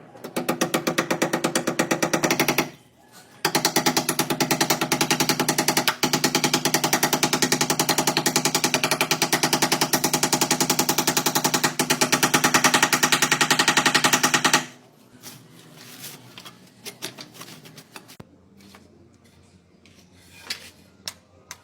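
A power tool running with a rapid, even hammering rhythm, in a short run of about two seconds and then, after a brief pause, a long run of about eleven seconds that cuts off suddenly. Scattered light clicks and taps follow.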